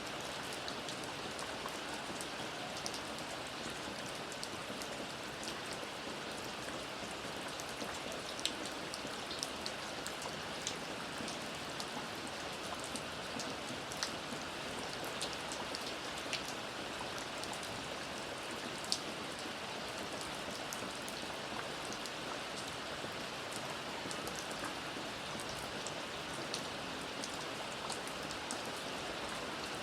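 Steady rain falling, an even hiss with scattered sharper ticks of single drops striking close by.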